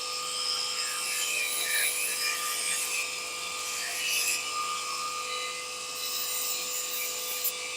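Belt sander running steadily, its abrasive belt grinding black paint off a strip of mild panel steel, with a constant motor hum under the hiss of the sanding.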